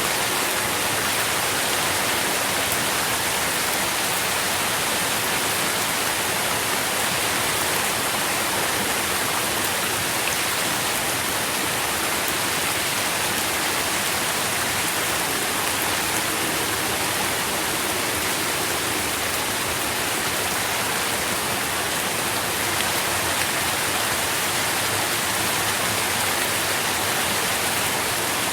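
Steady rain falling, a dense, even hiss of drops with no breaks or changes.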